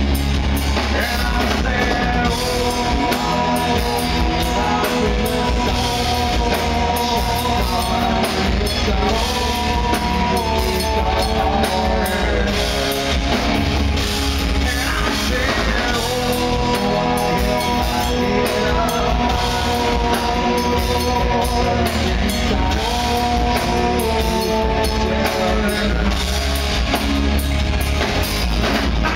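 Rock band playing loudly with a drum kit and a lead vocal.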